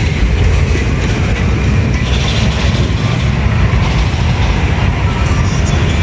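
Steady vehicle and road noise: a loud, unbroken low rumble with a hiss over it.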